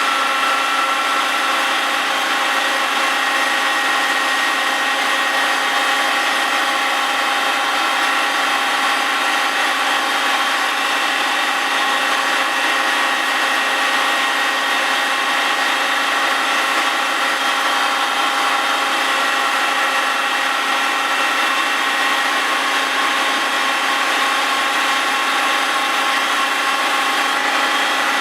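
Grinding wheel spinning in a milling machine against the face of a Willys Jeep flywheel as the rotary table slowly turns it: a steady, unchanging grind with several constant whining tones over a bright hiss. This is a finishing pass to resurface the flywheel.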